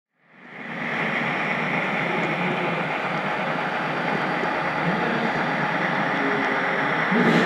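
HO-scale model train rolling along the track, heard from on board the caboose as a steady rumbling rattle of wheels on rail. It fades in from silence within the first second, then holds even.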